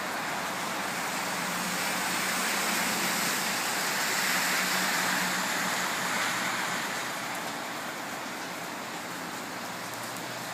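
Steady rain hiss, with a louder tyre hiss swelling over a few seconds in the middle and fading again as a car passes on the wet road.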